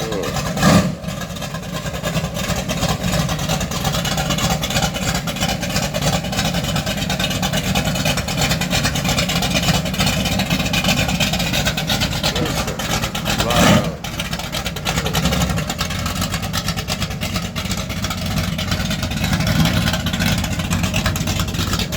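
Pickup truck's engine idling loud and choppy, with a rapid uneven pulse. Two brief louder blips come about a second in and near the middle.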